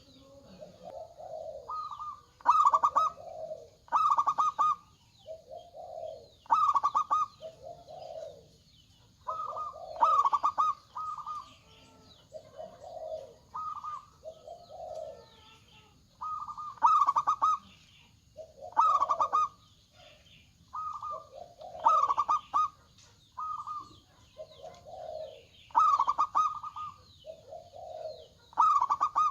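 Zebra doves (perkutut) cooing over and over, each phrase a rolling trilled higher note followed by lower rounded coos, repeating every second or two. A faint steady high hiss runs underneath.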